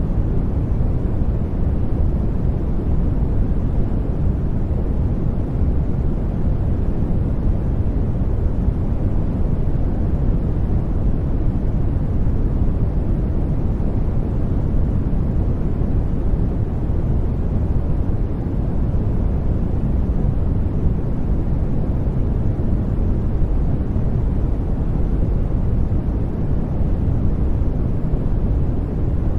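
Steady, unchanging sleep-noise track: a deep, even rush with most of its weight in the bass and little hiss on top, closer to brown noise than to bright white noise.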